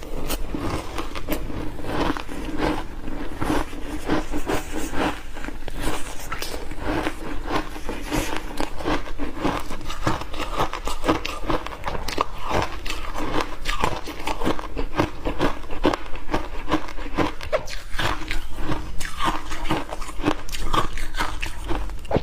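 Refrozen block ice coated in matcha and milk powder being bitten and chewed: a dense, steady run of crisp crunches and cracks with no pauses.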